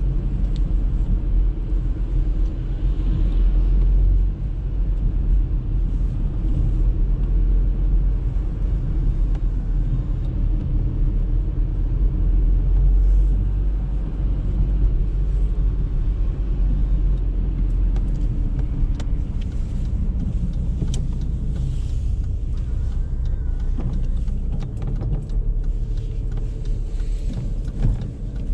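Audi A3 driving: a steady low rumble of engine and tyre noise, with a few light ticks in the second half.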